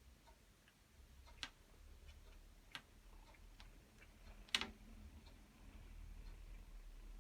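Quiet, irregularly spaced wet clicks and smacks of a mother cat and her kittens licking and suckling, the loudest about four and a half seconds in, over a faint low hum.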